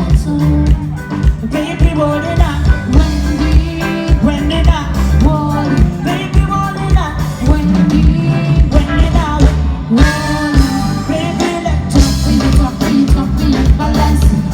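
A woman singing over loud backing music with a steady beat.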